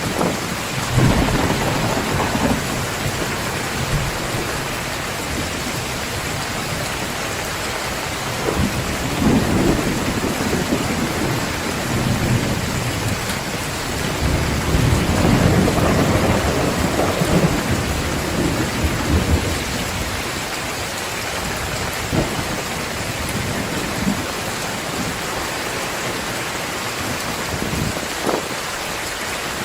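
Heavy rain pouring steadily, with thunder rumbling several times: low rolls near the start and through the middle, the longest and loudest about halfway, and a couple of short cracks later on.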